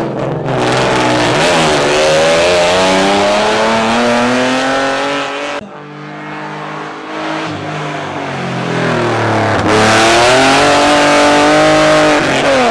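Nissan 350Z rally car's V6 engine revving hard under acceleration, its pitch climbing. About halfway through it drops suddenly and runs quieter for a few seconds, then climbs loudly again near the end.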